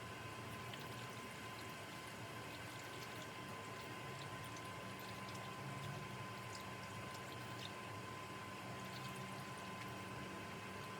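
Coolant being poured into a 1997 Honda CR250 motorcycle's radiator: a quiet, steady pour of liquid filling the cooling system.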